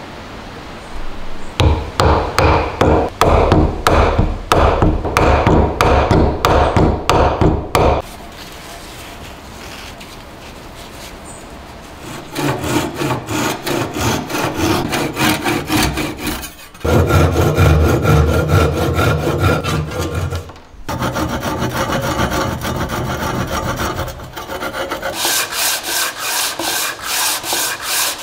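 A hand tool rubbed back and forth over wood in quick repeated strokes, about two a second. It goes in several bouts with short pauses between.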